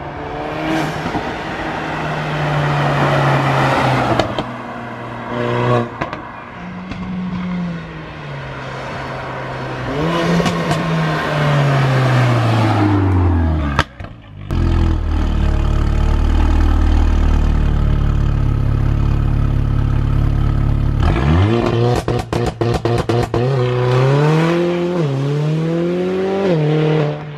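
Mercedes-AMG A45's turbocharged four-cylinder engine, running with a decat downpipe and a stage 2 remap, revving and falling back several times, with a steady drone through the middle. Near the end it blips quickly, with a rapid run of pops and crackles from the exhaust, like an angry popcorn machine.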